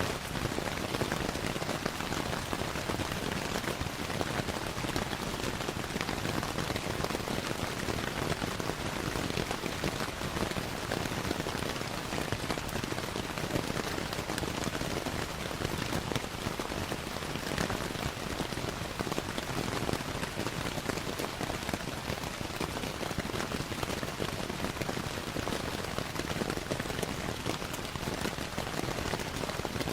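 Steady rain falling, mixed with the fine, irregular crackling of a wood fire, in an even, unbroken wash of sound.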